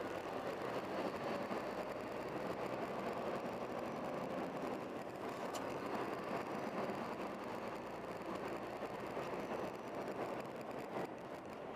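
Steady vehicle running noise, an even rumble and hiss, with a single faint click about halfway through.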